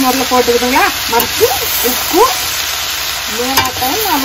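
Shredded cabbage and spices sizzling in a hot steel pan as a spatula stirs them, with a steady frying hiss and a click of the spatula about three and a half seconds in. A woman's voice talks over it.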